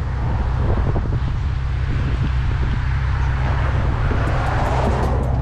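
Infiniti G37's V6 engine idling, a steady low rumble.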